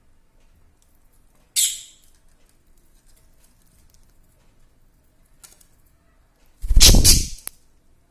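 Two short scratchy rustles from pet budgies at mint leaves: a brief high one about a second and a half in, and a louder one with a knock-like low thump near the end.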